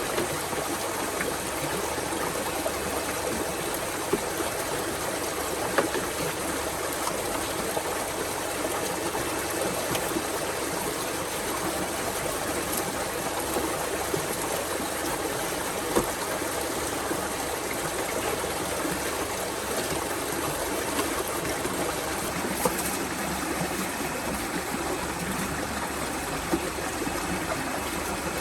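Steady running water, like a stream, with a few scattered faint clicks.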